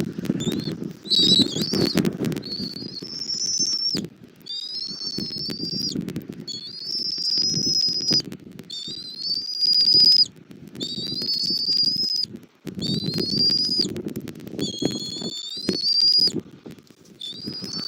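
Bald eagles calling: a run of about nine high, thin whistled calls, each about a second long, rising a little and then held. Under them, strong wind buffets the microphone with a rumble that comes and goes in gusts.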